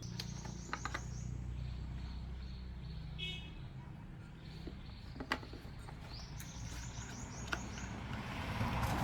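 A car engine running with a steady low hum, with a few sharp clicks and knocks over it and brief high chirps.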